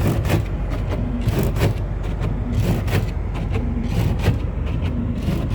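A car driving on a snowy road, heard from inside the car: a steady low road rumble with frequent irregular knocks and scrapes.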